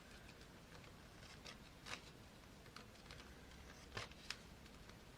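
Faint scissor snips, a few short sharp clicks of the blades cutting along a long edge, the clearest about two and four seconds in.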